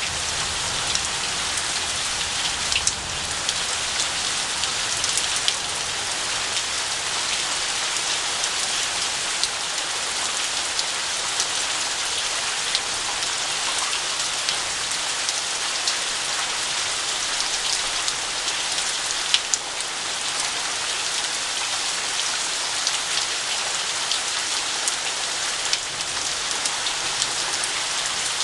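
Heavy rain falling steadily, a dense even hiss with many sharp ticks of drops striking a nearby surface.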